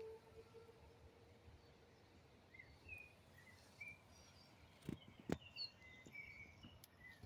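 Faint crackling wood: a few sharp cracks about five seconds in. Faint bird chirps sound around them.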